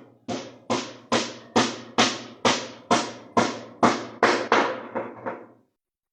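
A hammer striking, about fourteen blows at roughly two a second, as if driving nails into wood. The last few blows come quicker and lighter before it stops.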